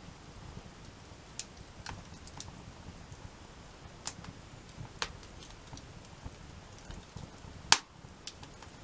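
Wood fire crackling, with scattered sharp pops and snaps about once a second and one loud pop near the end.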